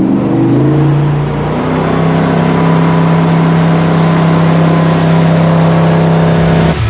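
Jet boat engine revving as the boat sets off, its pitch rising over the first second or so and then holding steady at speed.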